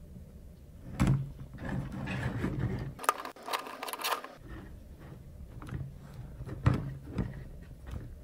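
Handling noises from removing the fur skin of a 1998 Furby: fabric rustling and scraping against its plastic body, with a sharp click about a second in and two more near the end.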